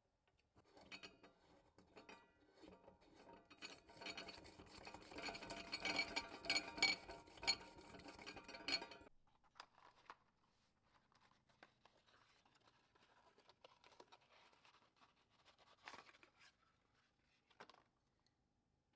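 Small metal and glass parts clinking and scraping during hands-on work on a vintage Coleman lantern, a busy stretch of handling noise that stops suddenly about nine seconds in, followed by only a few faint clicks.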